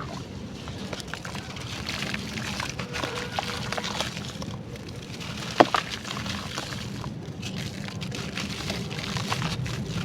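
Dry charcoal clay crunching and crumbling with a continuous patter of small crackles, and one sharper snap a little past halfway.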